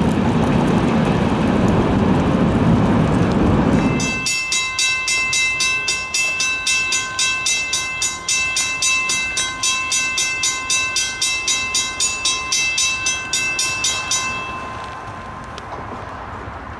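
A freight train rumbling past, cut off abruptly about four seconds in. Then a bell ringing with rapid, even strikes for about ten seconds before it stops, leaving a faint distant rumble of an approaching train.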